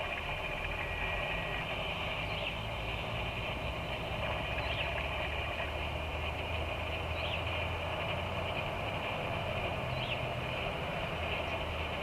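Short high bird chirps, four in all, about every two and a half seconds. Under them runs a steady outdoor background of high hiss and a low rumble.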